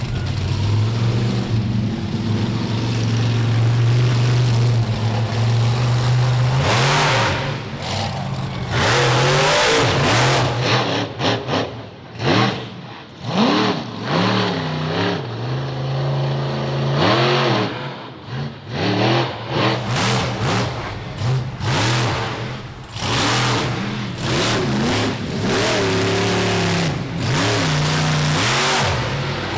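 Bigfoot monster truck's engine revving hard over and over during a freestyle run. The pitch climbs and falls with each throttle stab, with brief drops in the middle where the throttle lifts.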